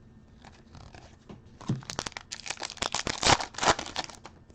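A wrapper on a pack of football trading cards being torn open and crinkled, a dense crackling run that starts about a second and a half in and stops shortly before the end.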